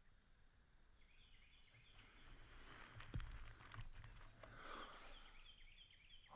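Faint woodland bird calls: a run of short, high chirps repeating, with a single dull knock about three seconds in.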